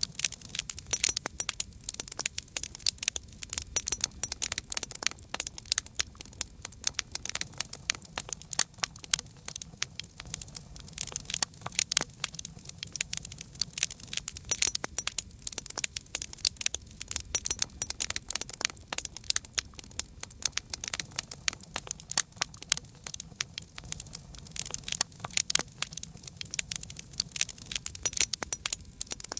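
Wood fire crackling and popping, with many quick irregular snaps over a low, soft rumble of flame.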